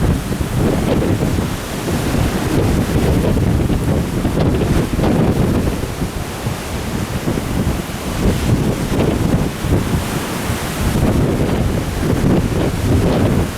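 Strong gusty wind buffeting the microphone in a deep rumble, with breaking surf beneath it.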